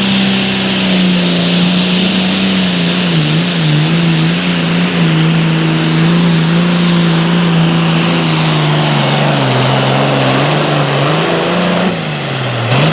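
Super Farm pulling tractor's turbocharged diesel engine running flat out under the load of a pulling sled. Its pitch sags slowly, with several brief dips as the load builds. Near the end the engine comes off throttle and the pitch falls.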